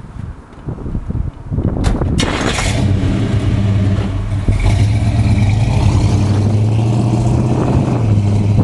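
Buick Skylark's engine starting about two seconds in, then running steadily. It gets louder from about five seconds in as the car pulls away.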